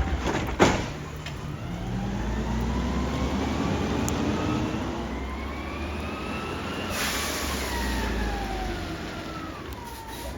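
Garbage truck: a loud bang or two in the first second, then the engine and hydraulic whine rising steadily in pitch for about six seconds and falling back again near the end, as the truck lifts or packs a load.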